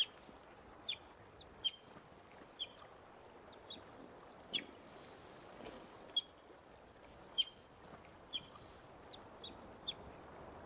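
Young North American river otter calling: about a dozen short, high-pitched chirps at roughly one a second, over a steady rush of river water. These are the frantic crying calls of a lost, injured youngster trying to get its family's attention.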